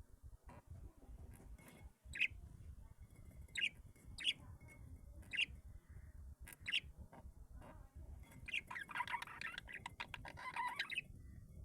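Birds calling: short sharp chirps about once a second, then a dense burst of rapid calls near the end.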